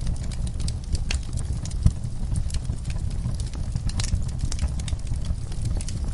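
Wood fire crackling in a fireplace: scattered sharp pops and snaps over a steady low rumble, with one louder pop about two seconds in.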